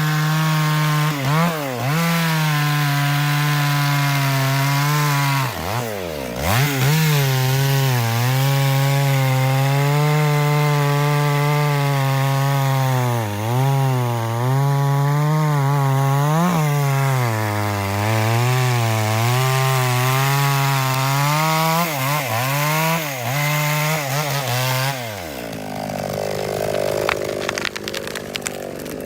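Two-stroke chainsaw running at full throttle while cutting through a tree trunk, its pitch sagging and recovering as the chain bites into the wood. About six seconds in the throttle is let off and opened again, and near the end the revs fall away and the saw runs on more quietly.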